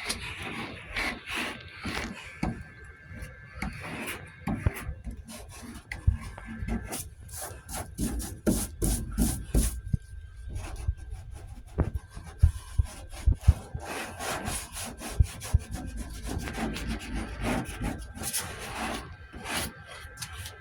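Hand sanding of body filler on a steel truck door with a sanding board: a run of irregular back-and-forth rasping strokes, a few sharper and louder ones about midway. The filler is still slightly soft, too wet to sand cleanly.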